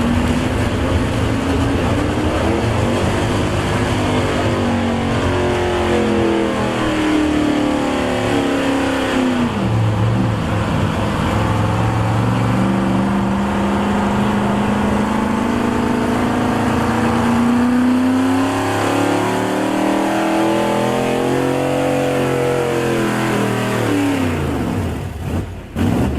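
Small-block V8 super stock pulling truck engine running at high revs under load during a pull. Its pitch climbs and sags, dipping briefly about nine seconds in, then the revs drop sharply near the end.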